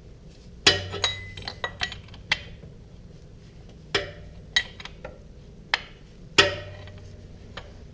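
Steel wrench clicking and clinking against a BMW airhead engine as a screw-in switch is turned in by hand. Two louder metallic clanks with a brief ring, about a second in and near the end, and lighter ticks between them.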